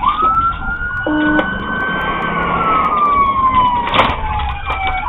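Police car siren on wail: one long slow cycle that sweeps up quickly, holds high, then slowly falls, and starts climbing again near the end, over the car's engine and road noise.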